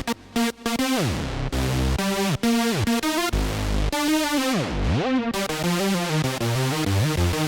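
Arturia Memory V synthesizer playing a rhythmic pattern of short pitched notes over bass notes. Several of the notes sweep quickly downward in pitch.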